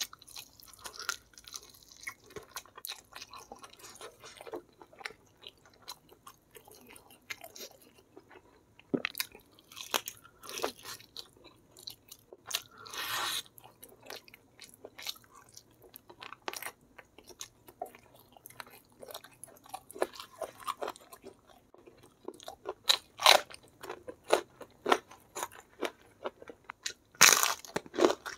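Close-miked eating sounds: crisp bites and chewing of fried chicken, many short crunches and wet mouth clicks, with louder crunches in the last few seconds.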